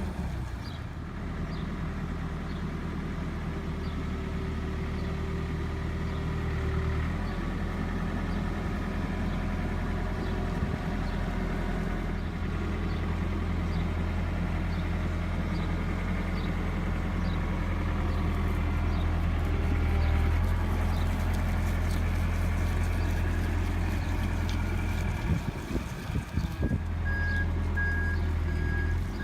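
Heavy diesel engine of a construction machine running steadily, with a backup alarm starting to beep regularly near the end.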